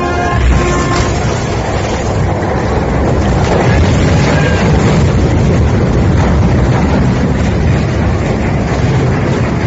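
A cruise ship's horn blast that cuts off within the first second. It is followed by loud, steady, low rumbling noise mixed with wind buffeting the microphone.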